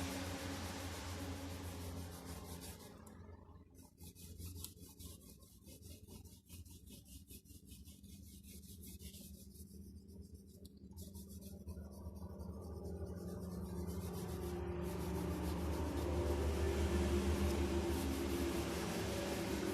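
A drawing tool rubbing across paper, over a steady low hum that drops away in the middle and returns towards the end.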